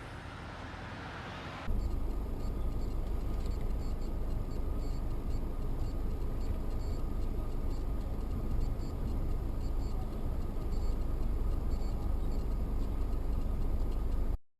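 A car driving, heard through a dashcam: a steady rumble of road and engine noise that starts abruptly about two seconds in and cuts off suddenly near the end.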